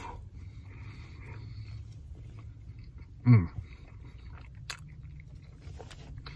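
A person chewing a mouthful of sandwich, with a steady low hum underneath. About three seconds in there is a short falling hum from his voice, and a single click comes near the end.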